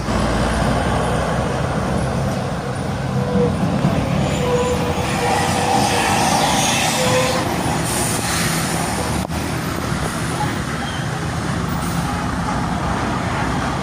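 Busy road traffic with large diesel trucks passing: a steady low engine drone over tyre and road noise, with a brief hiss about eight seconds in.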